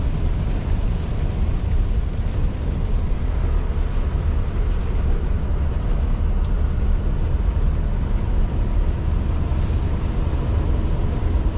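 Scania R620 16-litre V8 truck engine running steadily on the move, a constant low drone with road noise over it.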